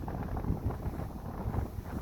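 Blizzard wind buffeting the microphone in uneven gusts, a rumbling rush of noise.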